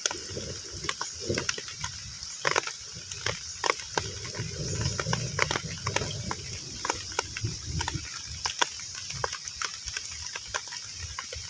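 Heavy rain falling on a pond: a steady hiss with many individual drops plopping sharply on the water surface. Irregular low sounds run underneath.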